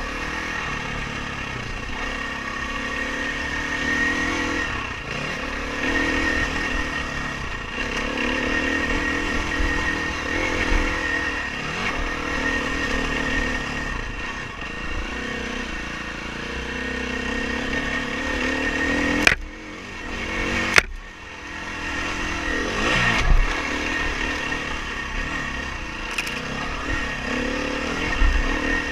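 Dirt bike engine running under a rider's throttle, its pitch rising and falling as it revs and backs off. Two sharp knocks come a second and a half apart around two-thirds of the way through.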